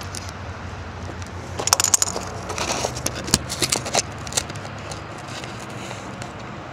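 2008 Dodge Charger's 3.5-litre V6 idling steadily through a stock Daytona muffler and Blastin' Bob's resonators, a low even hum. A run of sharp clicks and crunches comes over it between about two and four seconds in.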